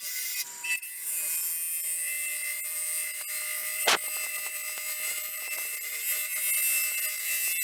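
Wood lathe running with a turning tool cutting a resin-and-pecan-shell bowl blank: a steady motor whine under a high hiss of cutting, with one sharp click about four seconds in.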